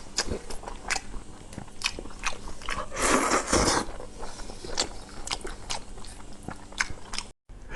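Close-miked eating sounds: wet chewing, with mouth clicks and smacks throughout. A louder slurp or bite comes about three seconds in.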